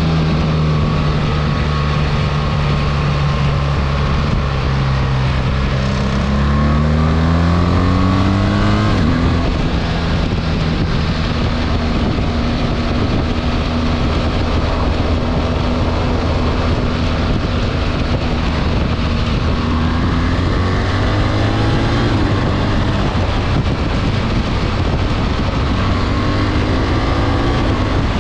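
BMW R 1300 GS boxer-twin motorcycle engine under way, with wind and road noise. Its revs climb from about six seconds in and drop suddenly at a gear change about nine seconds in. They then hold steady and climb again about twenty seconds in and near the end.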